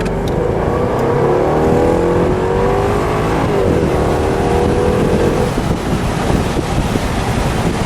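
2010 Jaguar XKR's 5.0-litre supercharged V8 accelerating, its note rising in pitch. There is a gear change about three and a half seconds in, and the note climbs again until it fades into wind and road noise a couple of seconds later.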